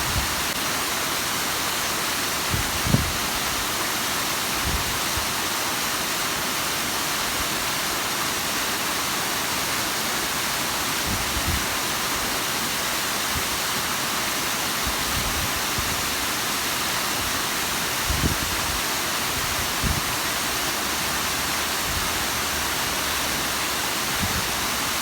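Bigăr waterfall: a steady, even rush of falling water, with a few brief low thumps.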